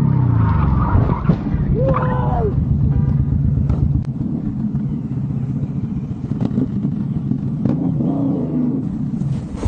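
Vehicle engines running in street traffic, a steady low rumble with a few sharp knocks and a brief wavering squeal about two seconds in.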